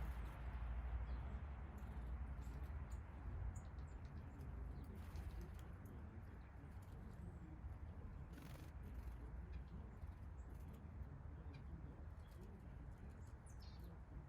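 Backyard songbirds chirping faintly and briefly here and there, over a steady low outdoor rumble, with a couple of short soft noises partway through.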